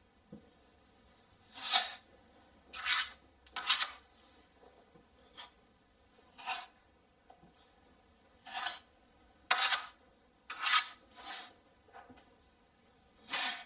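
Metal putty knife scraping joint compound across a plasterboard wall: about eight short, irregular strokes.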